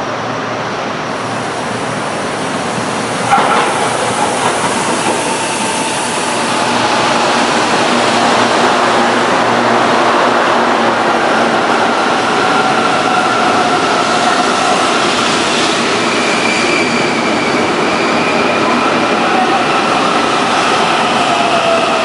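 CPTM electric commuter train running into a station platform: a steady rumble of wheels on rail, with a single clunk a few seconds in. Over the second half a whine from the traction motors falls slowly in pitch as the train brakes.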